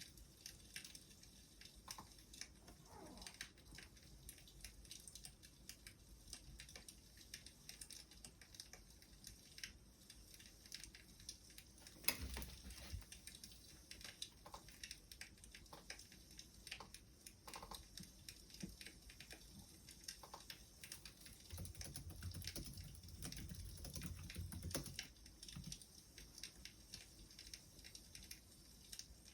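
Faint crackling of a wood fire: irregular small pops and snaps, with one sharper pop about twelve seconds in and a low rumble for a few seconds near the end.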